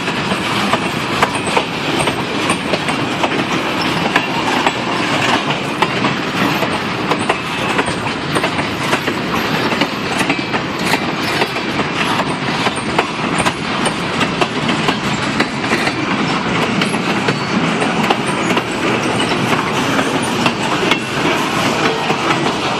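Freight cars of a slow-moving train rolling past on worn jointed rail: a steady wheel rumble with a continual clickety-clack of clicks as the wheels cross the rail joints.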